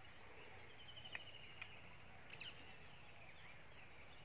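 Faint bird chirps and short calls over a quiet outdoor background.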